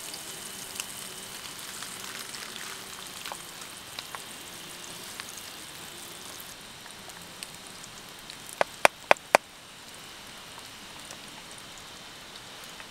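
Sliced sausages sizzling in a frying pan on a portable gas stove, a steady fine crackling hiss with small ticks as a wooden spatula stirs. A little past the middle, four sharp clicks come in quick succession, the loudest sound.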